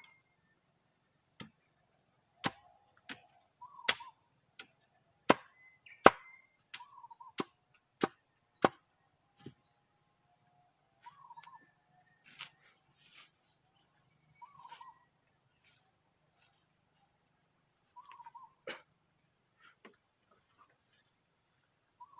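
A series of sharp strikes on wood, about one a second for the first nine seconds, then only a few scattered ones, typical of chopping or hammering while building a forest shelter. Insects drone steadily in the background, and a short animal call repeats every few seconds.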